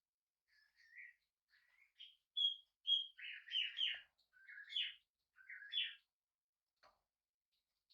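Budgerigar chirping: a run of short chirps and quick warbled calls, loudest about halfway through, fading out about six seconds in, followed by a faint click.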